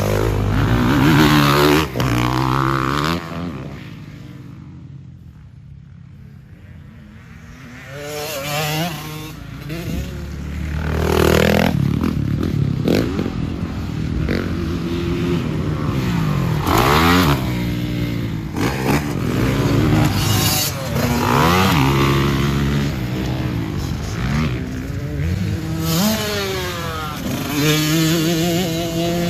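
Motocross dirt bike being ridden, its engine revving up and falling off again and again as the throttle is opened and closed through the gears. It drops quieter for a few seconds about three seconds in, then comes back up.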